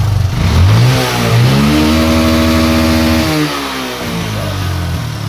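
Hero Glamour i3s motorcycle's single-cylinder engine revved once: the pitch climbs from idle, holds high for a couple of seconds, then drops back to a steady idle. This is an engine that has been blowing white smoke from the exhaust.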